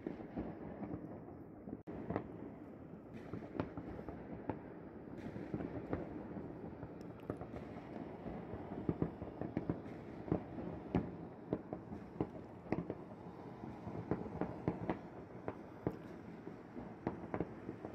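Fireworks going off across the city: a continuous rumble of many overlapping distant bangs with sharper single pops throughout, growing more frequent in the second half.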